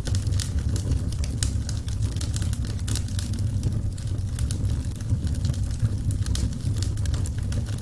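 Wood fire burning, with a steady low rumble and many small, quick crackles and pops throughout.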